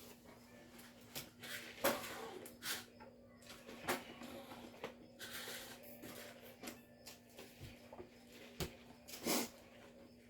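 A person eating chicken nuggets without teeth, gumming them with scattered wet smacks and clicks and a few noisy breaths through the nose. A faint steady hum runs underneath.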